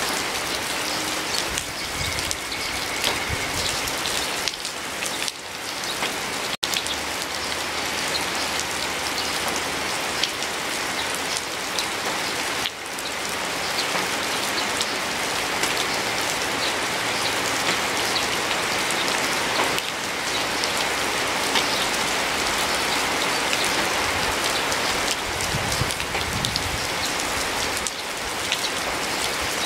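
Steady rain falling on a garden and dripping off a roof edge, an even hiss dotted with many close drip taps. The sound drops out for an instant about six and a half seconds in.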